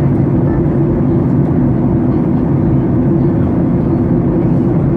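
Airliner cabin noise: a loud, steady low rumble with no changes.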